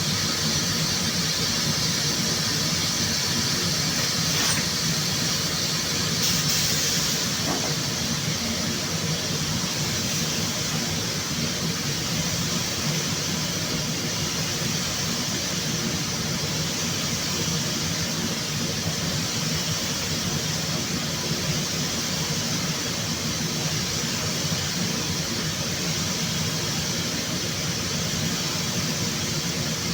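Steady hiss of air with a low hum underneath, the continuous noise of a paint spray booth during spray painting.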